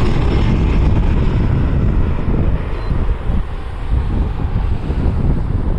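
Jet airliner engines passing and fading away, mixed with wind buffeting the microphone.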